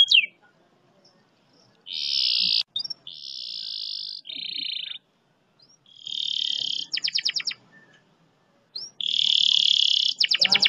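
Canary singing fast rolls: several buzzing, rapid trills each lasting about half a second to a second, with short pauses between them. A quick run of separate clicking notes comes just past the middle and again near the end.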